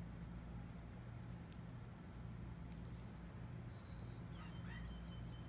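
Quiet outdoor background with a steady low hum, and a few faint bird chirps a little past the middle.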